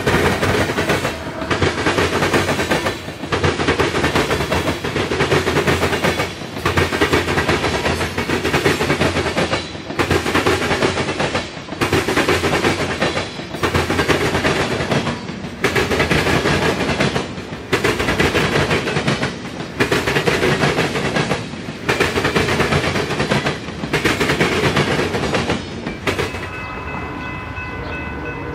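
A freight train of covered hoppers and centerbeam lumber flatcars rolls past close by, with steady wheel-and-rail noise that dips about every two seconds as each car goes by. Near the end it gives way to a steady ringing tone from a grade-crossing warning bell.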